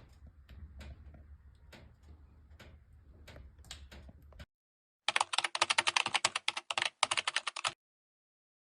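Wood fire crackling in a wood stove: scattered pops and ticks over a low hum, then, after a cut, a loud burst of dense, rapid crackling for about two and a half seconds that stops abruptly.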